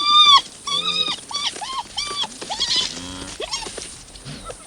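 Hyenas and jackals yelping in a rapid run of short, high calls that rise and fall, several a second and overlapping, as they close in on a wildebeest calf.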